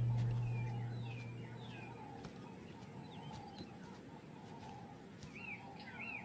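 Birds chirping, a scattering of short rising-and-falling chirps that come twice in quick succession near the end. A low rumble fades out over the first two seconds.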